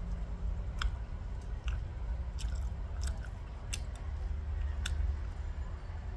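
A person chewing a French fry with mayonnaise. There are about half a dozen short, sharp crunching clicks spread through the chewing, over a steady low rumble.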